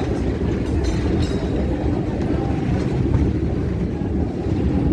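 Passenger train running along the track, heard from aboard the carriage: a steady low rumble of wheels and running gear.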